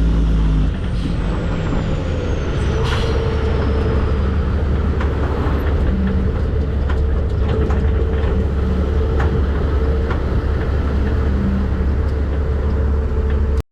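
Heavy diesel dump truck's engine running under way, a loud steady low drone with road noise. Its tone changes and the level dips a little about a second in, and the sound cuts off abruptly at the very end.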